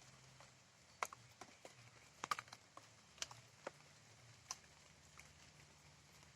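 Faint, scattered raindrops tapping irregularly, a dozen or so sharp drips over a low steady hiss, the loudest cluster about two seconds in.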